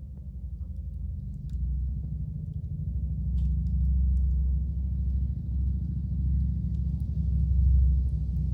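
Wood campfire with a few sparse, faint crackling pops over a loud low rumble that swells from about a second and a half in.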